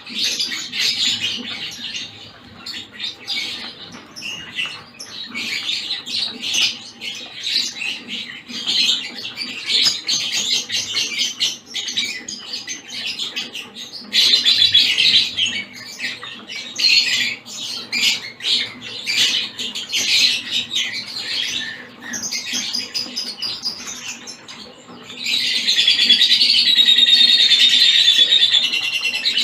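A mixed flock of small caged finches chirping and calling together in a dense, continuous chatter, growing louder and more sustained near the end.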